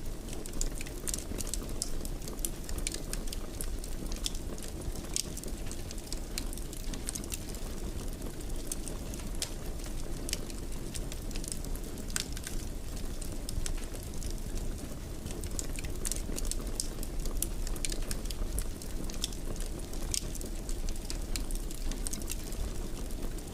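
Wood fire in a fireplace crackling, with many small, sharp pops at irregular intervals over a steady low rumble.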